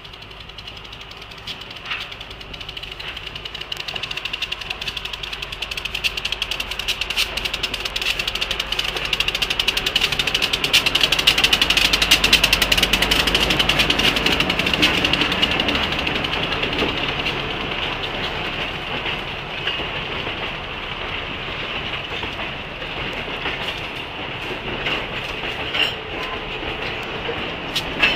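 Diesel freight train approaching and passing close by. The locomotive's rumble swells to its loudest about halfway through, then the cars roll past with rapid clicking of wheels over the rail joints. A second locomotive comes by near the end.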